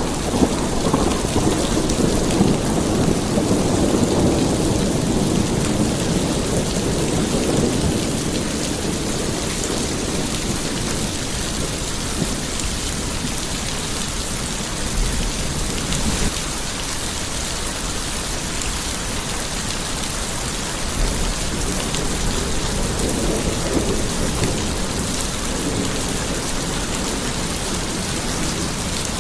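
Steady rain with a long roll of thunder rumbling over the first several seconds and fading away, and a fainter rumble of thunder near the end.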